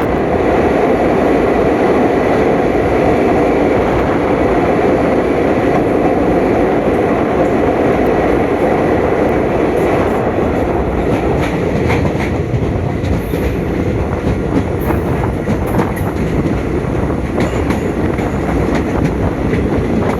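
Passenger train running along the track: a steady loud rumble of wheels on rails, with rail clatter and sharp clicks that become more frequent about halfway through.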